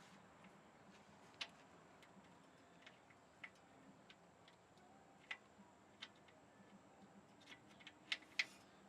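Near silence broken by scattered faint clicks and light metallic taps at an uneven pace, with two sharper clicks close together near the end: hand and tool contact on metal parts while reaching up to the starter bolts under a truck.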